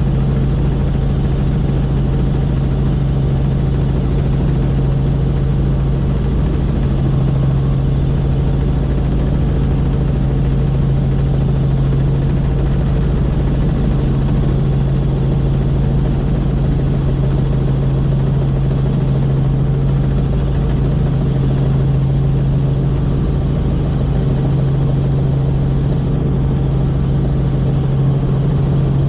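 Helicopter engine and rotor running steadily: a continuous, unchanging drone with a strong low hum.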